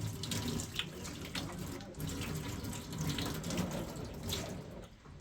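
Water running and splashing, with scattered knocks.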